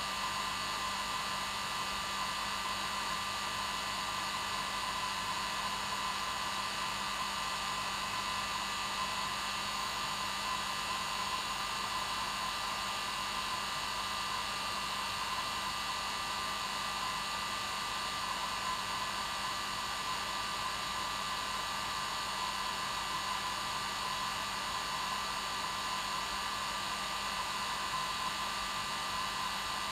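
Hair dryer running continuously at an even, steady level, a constant rushing of air with a motor whine.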